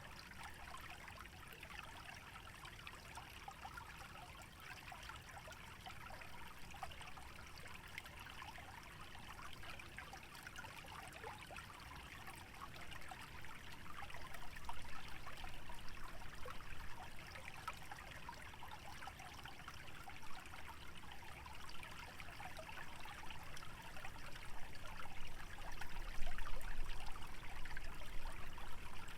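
Shallow stream trickling and splashing steadily through a wetland, growing louder in the second half, with a low rumble that swells near the end.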